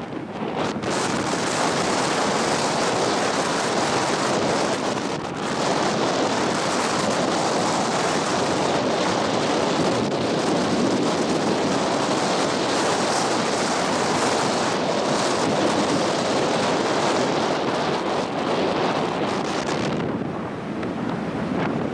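Strong coastal wind buffeting the microphone: a loud, steady rush that dips briefly about five seconds in and eases a little near the end, with surf breaking on the beach underneath.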